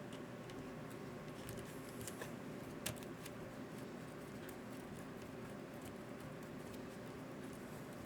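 Light, scattered clicks and taps of small tools and parts being handled on an RC car, over a steady low hum.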